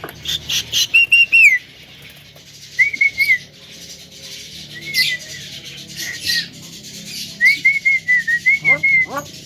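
Javan myna calling: short runs of clear whistled notes, several times over, mixed with sharp clicks and chirps.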